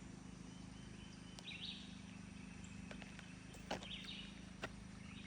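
Quiet outdoor ambience with short, buzzy, high-pitched animal calls repeating every couple of seconds over a low steady hum, and a few sharp clicks.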